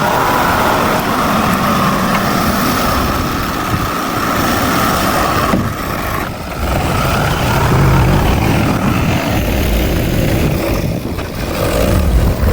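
Heavy earthmoving machinery running: diesel engine noise from a bulldozer and dump trucks working soil, with a heavier low rumble from about seven seconds in.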